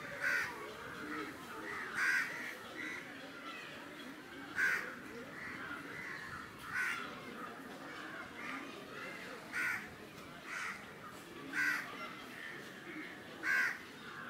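Short cawing bird calls, about eight in all, one every one to three seconds, over a low steady outdoor background.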